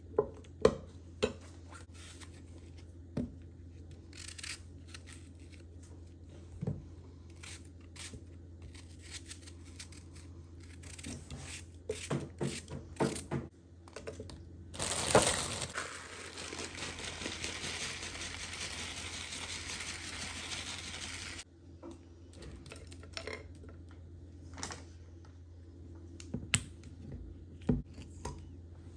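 Kitchen handling sounds: scattered clicks and knocks of dishes and utensils, with some crinkling or tearing. A steady rushing noise runs for about six seconds in the middle, over a constant low hum.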